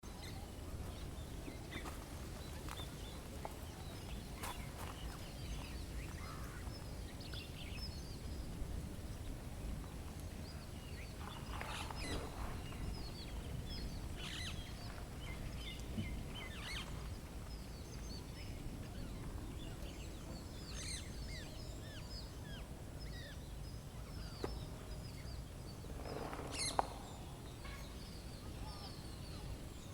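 Many small birds chirping and calling throughout, over a steady low background rumble. Two louder calls stand out, about twelve seconds in and near the end.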